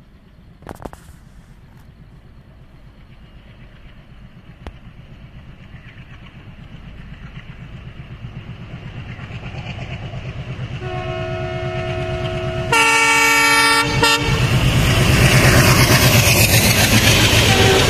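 Indian Railways express train approaching at speed, its rumble slowly growing louder. The locomotive then sounds its horn twice, the second blast louder and higher than the first. The train then passes close by with a loud, steady rush of wheel and rail noise.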